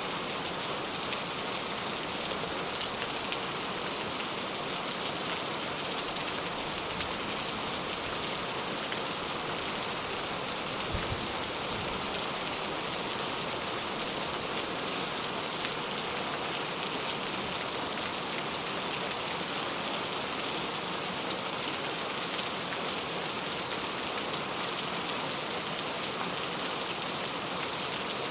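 Steady rain falling and pattering on a surface, an even hiss of drops with no change in strength.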